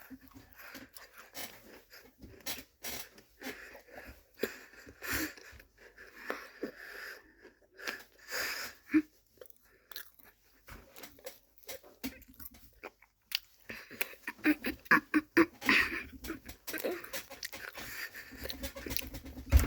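A Ritz cracker being bitten and chewed close to the microphone: irregular crisp crunches, coming thicker and faster in the last few seconds.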